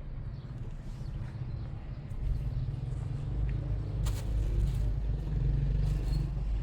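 Low, steady rumble of a motor vehicle, growing louder about two seconds in, with a few faint clicks.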